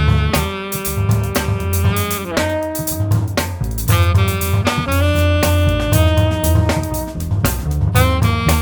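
Jazz combo playing: a saxophone holds long notes, stepping from pitch to pitch, over drum kit with cymbal strokes and bass.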